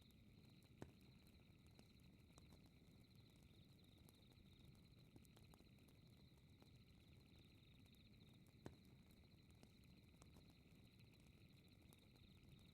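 Faint fireplace crackle, with scattered small clicks and two sharper pops, about a second in and about nine seconds in, over a steady high chirring of night insects such as crickets.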